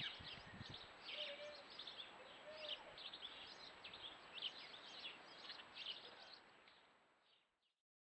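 Small garden birds chirping, many short quick chirps overlapping, with a few low thumps in the first second. A faint steady high whine runs underneath, and the sound fades out near the end.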